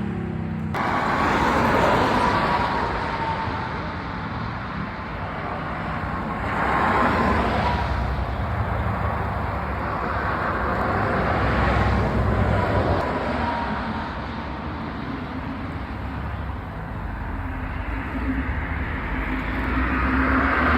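Car engines and tyre noise from vehicles driving by, swelling and fading several times as cars pass.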